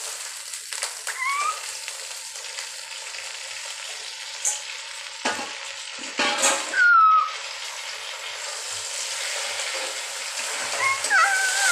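Fresh sour khatta bhaji leaves sizzling in hot oil in a steel kadhai, a steady frying hiss. A couple of sharp knocks in the middle of it.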